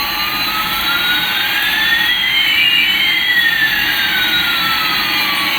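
Synthesized jet-engine sound effect: a steady rushing hiss with two whistling tones, one rising and one falling, that cross about halfway through.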